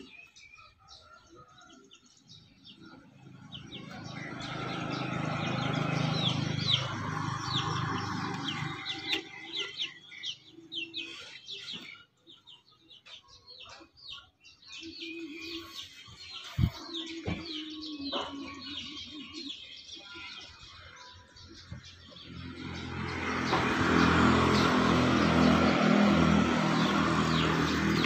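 Small birds chirping over and over in quick short notes. A low rumbling sound swells and fades twice, loudest about six seconds in and again near the end.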